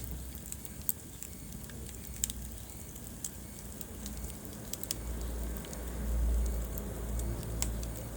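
Wood fire crackling in a fireplace, with scattered sharp pops and snaps over a steady hiss. A low rumble of the flames swells and fades about five to seven seconds in.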